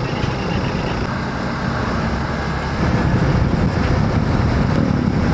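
Hero Xpulse 200 4V's single-cylinder engine running under way, with wind rush on the helmet microphone; the sound gets louder about three seconds in.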